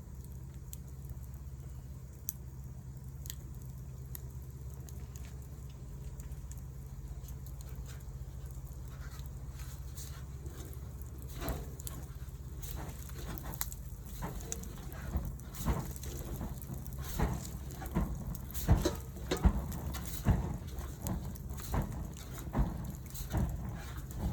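Wood fire crackling, with sharp pops that become much more frequent and louder about halfway through, over a low steady rumble.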